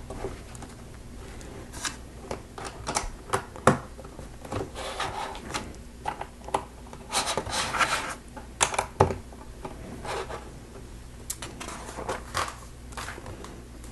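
Plastic LEGO bricks and plates being handled and pressed together: irregular sharp clicks, taps and light scraping, a few of them louder snaps.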